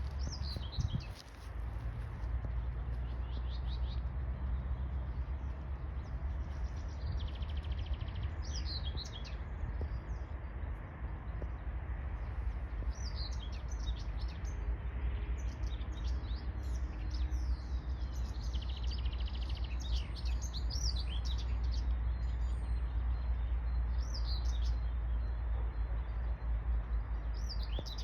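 Songbirds chirping and singing in short, repeated high phrases and trills, over a steady low rumble.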